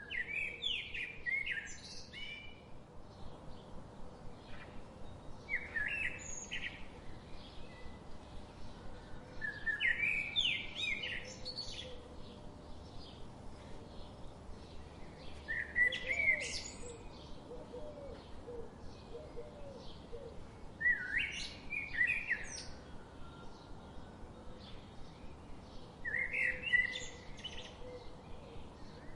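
A songbird singing short, bright phrases of quick notes about every five seconds, over a steady fast ticking.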